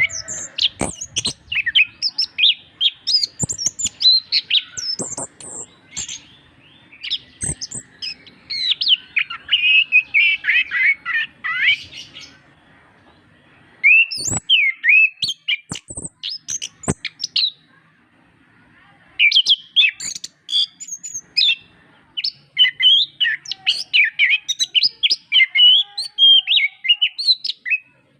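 Chestnut-capped thrush (anis kembang) singing in long bouts of rapid, varied chirps and twittering trills, with two short pauses partway through.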